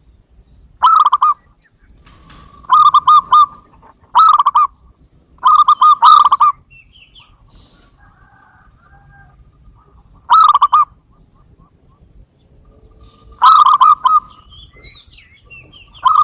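Zebra dove (perkutut) song played as a trapping lure: short bursts of quick staccato coos, about seven phrases with a longer pause midway. Faint chirps of other small birds sound between the phrases.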